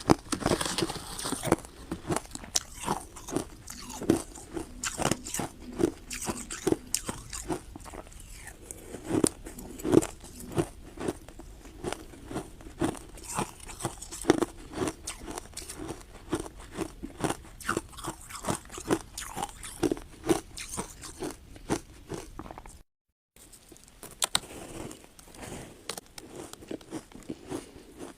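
Hard ice being bitten and chewed close to the microphone: a dense run of sharp crunches and cracks, broken once by a moment of silence about two thirds of the way in.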